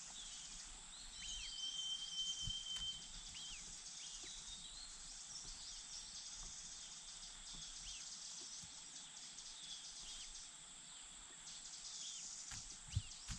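Short, repeated bird chirps over a steady high-pitched buzz, with one held whistled note about a second in. A few soft low thumps come near the end.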